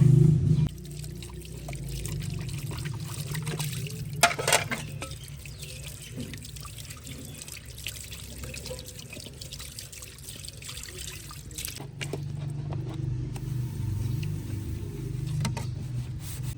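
Water pouring and trickling, with scattered light clicks and knocks over a low steady hum.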